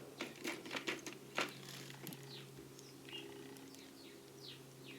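Small metal button oilers clicking and clinking against each other as they are handled in a toolbox drawer, a cluster of clicks in the first second and a half. A steady low hum runs underneath, with a few short high falling chirps in the second half.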